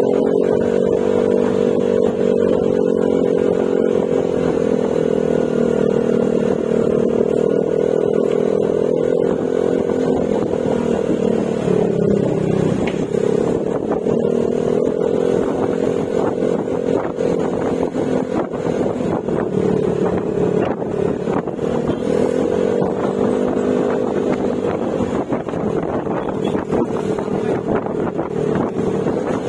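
Yamaha Mio Gravis scooter's single-cylinder engine running steadily at cruising speed through an aftermarket Akrapovic exhaust with silencer. Its pitch dips briefly about twelve seconds in, then rises and falls gently later on.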